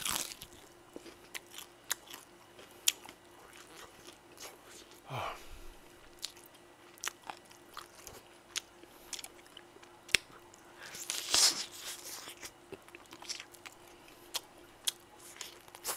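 Close-miked biting and chewing of crispy fried chicken, with sharp crunches scattered throughout. A longer, louder noisy stretch comes about eleven seconds in.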